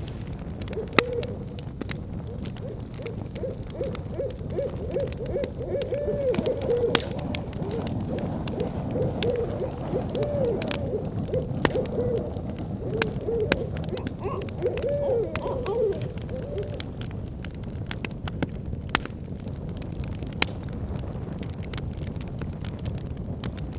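An owl hooting in a long run of short calls that rise and fall in pitch, stopping after about seventeen seconds. Under it a wood bonfire burns with a low rumble and scattered sharp pops.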